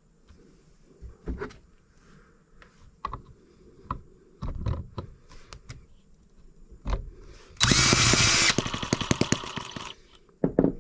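Knocks and clicks of handling, then about a second of a power drill whirring as it spins the M25 sideshaft engine over. The engine follows with a quick string of firing pops that dies away within about a second and a half; just after, the owner says it acts like it is running a little rich.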